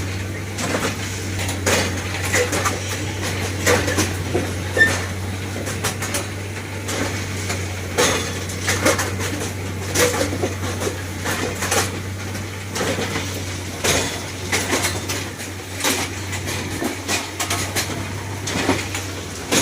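Irregular metallic clanks and knocks from railway repair work with metal tools and parts, several in each second, over a steady low hum.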